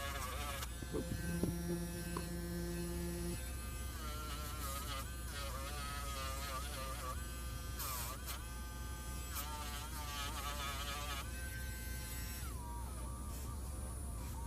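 Small electric rotary tool whining steadily over a low hum while polishing a die-cast model, its pitch wavering up and down as it is pressed to the work.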